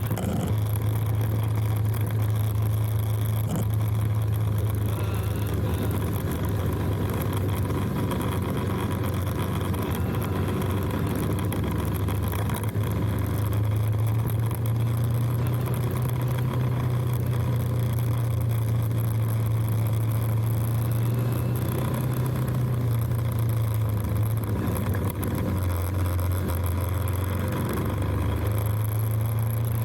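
Motorcycle engine running steadily while riding, with a constant rush of wind and road noise over it. The engine note drops for a few seconds near the end, then comes back up.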